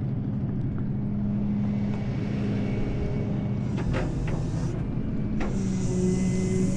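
A tow truck's engine idling steadily, with a few short clicks about four and five and a half seconds in.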